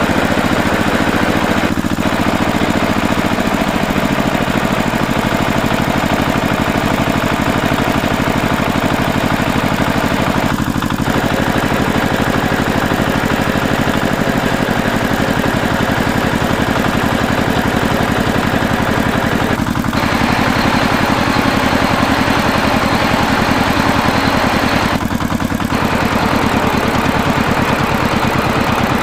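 Tractor engine running steadily with a knocking diesel-like beat, its higher sound dipping briefly four times.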